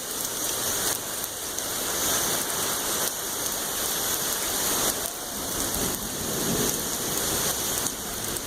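Heavy rain pouring down in a thunderstorm: a steady, even hiss of downpour on the ground and roofs.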